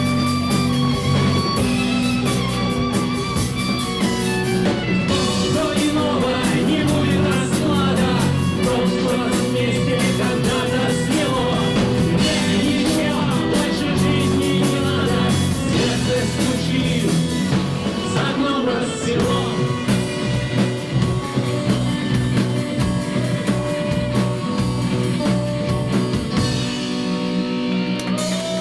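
Live rock band playing an instrumental passage with guitars and a drum kit. Near the end the drums and cymbals drop out, leaving a held note ringing.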